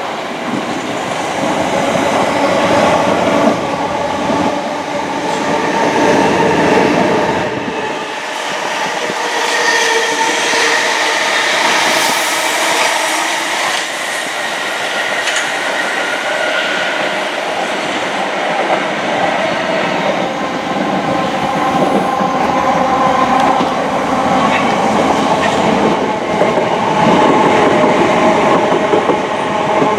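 Passenger train running past on the tracks at a steady loudness, wheel-on-rail noise mixed with steady whining tones.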